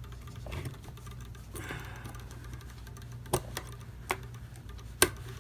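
Scattered small metallic clicks and taps from handling a clock movement's mainspring, let-down tool and retaining clip, with three sharper clicks in the second half, over a low steady hum.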